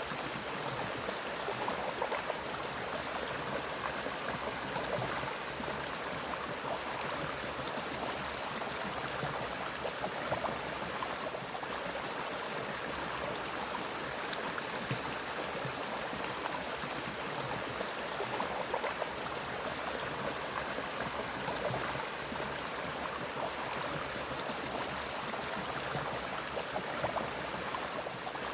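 Forest mountain stream flowing over rocks, a steady rushing and bubbling of water. A steady high-pitched whine sits above it.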